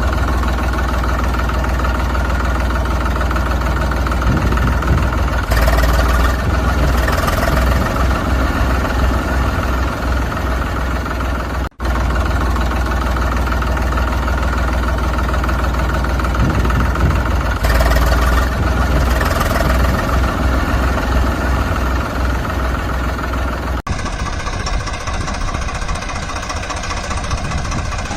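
Tractor engine running and idling with a heavy low rumble. The sound repeats in the same pattern about every twelve seconds, with brief cuts between repeats.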